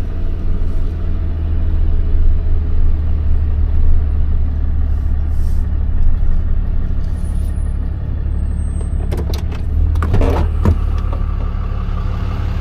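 Tow truck's engine running steadily at low revs, with a short cluster of clicks and knocks about nine to ten seconds in.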